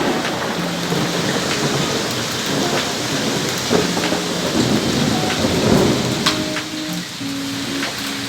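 Steady heavy rain falling, with thunder rumbling about five to six seconds in.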